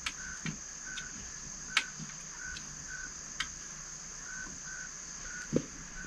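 Crickets and other insects calling: a steady high trill with a lower chirp repeating irregularly, every half second or so. A couple of sharp clicks and small knocks stand out.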